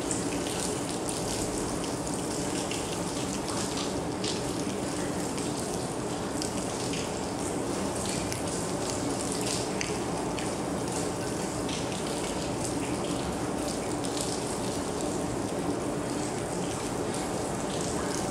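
Steady rain falling, with many separate drops striking nearby hard surfaces over an even wash of rain noise.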